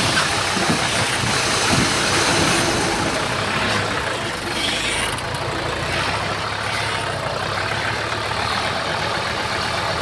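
Diesel engine of heavy earthmoving machinery running steadily under a dense, noisy rush.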